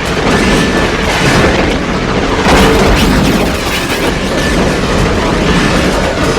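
Film sound effects of a runaway subway train crash: heavy booms and crashing, grinding noise, with a sudden loud hit about two and a half seconds in.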